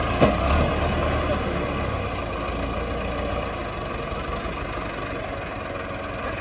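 Heavy diesel engine running steadily, with a sharp knock about a quarter of a second in. Its low rumble eases off after about three and a half seconds.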